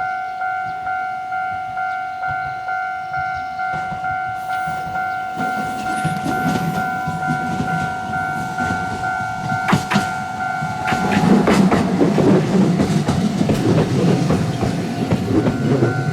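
Level crossing alarm ringing about twice a second while a Fukui Railway train approaches and runs past. The train's wheel and rail noise builds from about five seconds in and is loudest over the last few seconds, with clicks as the wheels cross rail joints.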